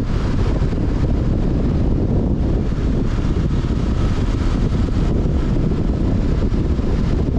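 Honda CB500X's parallel-twin engine running steadily at speed, heavily mixed with wind rushing over the microphone.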